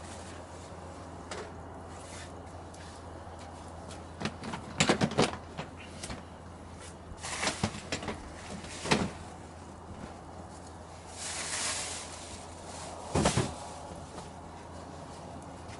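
A few scattered knocks and clunks of objects being handled, with a brief rustle in between.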